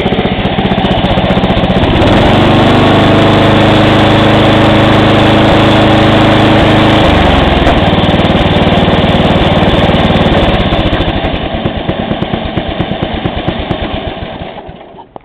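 Briggs & Stratton I/C 12.5 hp single-cylinder lawn tractor engine running; it speeds up about two seconds in and holds at speed. About two-thirds of the way through it is shut off, its firing pulses slowing and spacing out as it winds down to a stop near the end.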